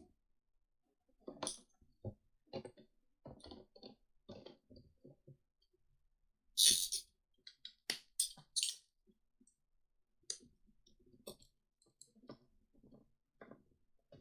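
Plastic segments of a 144-piece Rubik's Snake clicking and rattling as they are twisted and turned by hand, in irregular bursts, the loudest a short rattle about seven seconds in.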